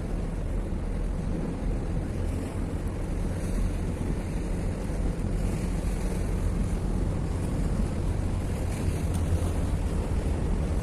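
Wind buffeting the microphone outdoors by the harbour: a steady low rumble with a faint hiss above it.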